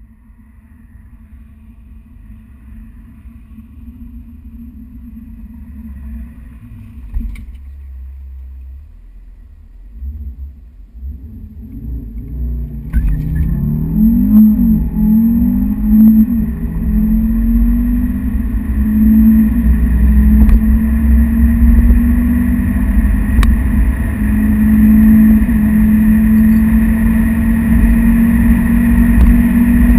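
Tuned Audi RS3's turbocharged 2.5-litre five-cylinder engine. A low rumble grows louder over the first twelve seconds, then the car accelerates at full throttle, its engine note climbing and dropping back at each upshift several times. It stays loud through the end.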